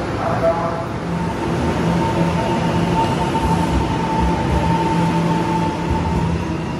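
Train moving alongside a station platform: a steady low rumble with a high, steady whine over it from about a second in until near the end.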